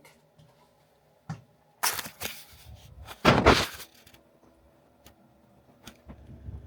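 Fridge-freezer packaging being handled: a light knock, then two short crackling, scraping bursts, the second the loudest, and a couple of faint clicks.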